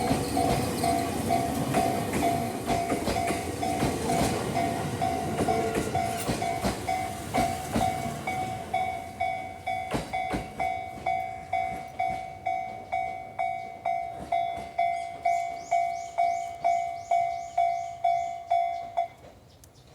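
Japanese level-crossing alarm dinging about twice a second over the fading rumble and rail clatter of a passing E231 series electric train. The alarm cuts off suddenly near the end as the crossing clears.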